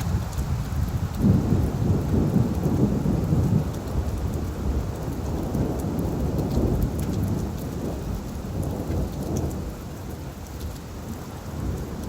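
Steady rain falling on leaves, with scattered drop ticks. A low rumble of thunder swells about a second in and slowly rolls away over the following seconds.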